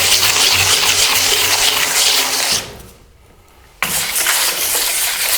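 Plastic float rubbing over wet decorative concrete plaster, a loud gritty scraping as the grains in the mix roll under it. It breaks off for about a second partway through, then starts again.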